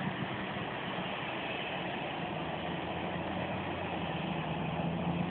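Jet airliner engines running steadily, a continuous rumble with a low hum that grows a little louder near the end.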